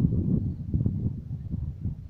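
Strong wind buffeting the microphone: an irregular, fluttering low rumble.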